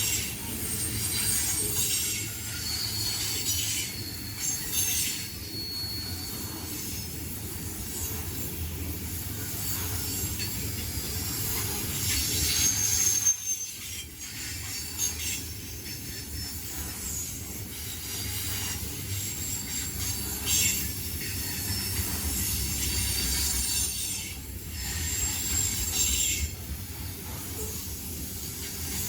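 Freight train cars rolling past on the rails with a steady low rumble, and the wheels giving short high-pitched squeals on and off.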